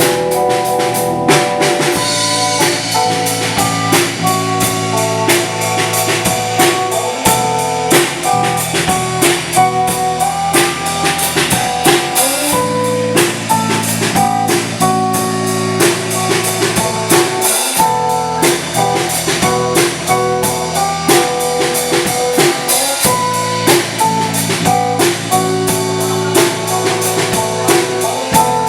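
Live rock band playing an instrumental break between verses: a drum kit keeps a steady, busy beat under held melodic instrument lines.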